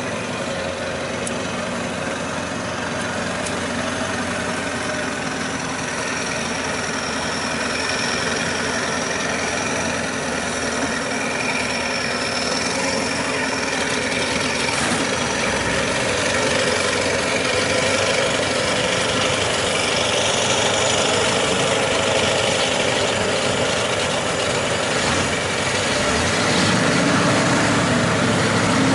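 Heavy mud truck engine running steadily, growing gradually louder.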